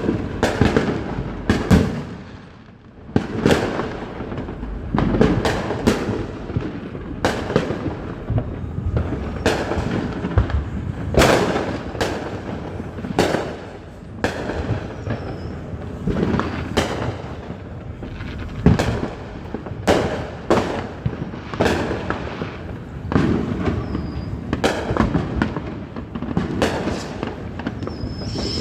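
Fireworks going off in rapid succession: many sharp bangs, several a second at irregular intervals, over continuous crackling and rumbling. A few short high whistles are heard among them, one near the end.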